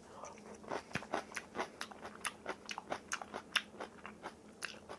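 Close-up crunchy chewing of spicy cabbage kimchi: a steady run of short crisp crunches, about four a second.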